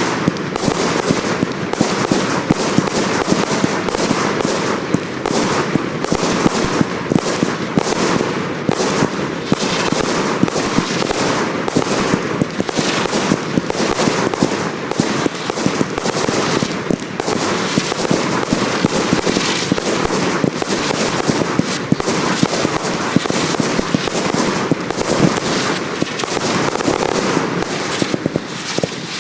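Professional fireworks display: a dense, continuous barrage of rapid bangs and crackles, many each second, with no let-up.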